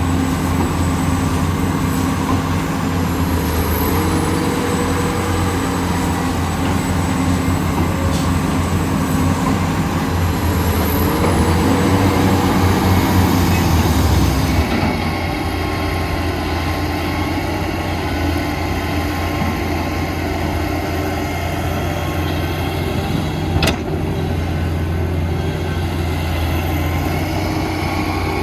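Heavy diesel engines of an excavator and dump truck running under load, with brief whines that rise and fall a couple of times. About halfway through, the engine note drops and settles to a steadier, lower run. A single sharp knock comes near the end.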